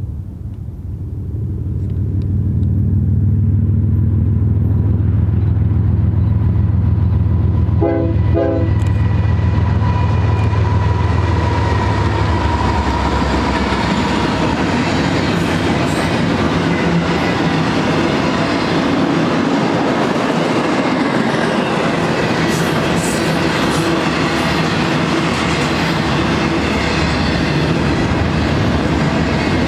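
Double-stack intermodal freight train passing close by: the GE ES44-series diesel locomotive's engine drone grows louder as it approaches and goes by, with two short horn toots about eight seconds in. After the locomotive passes, the container well cars take over with steady wheel-on-rail noise and clickety-clack over the rail joints.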